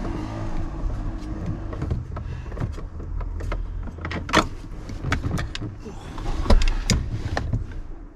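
Clicks, knocks and scraping of hands and tools working a car part loose until it comes free, with the loudest knocks about four and a half and six and a half seconds in.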